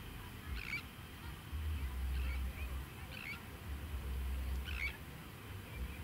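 A bird calling in short notes, four times about a second and a half apart, over gusts of wind rumbling on the microphone.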